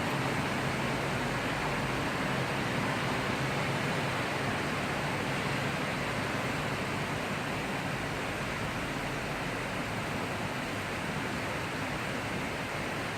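Heavy rain falling in a thundery shower: a steady, even hiss that eases a little towards the end.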